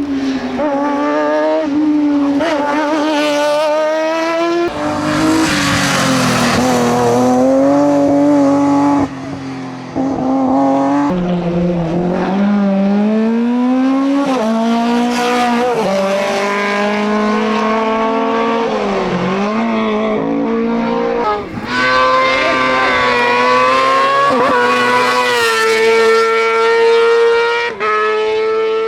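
Hillclimb race car engines revving hard, pitch climbing and dropping again and again through gear changes and corners, with a few sudden breaks in the sound.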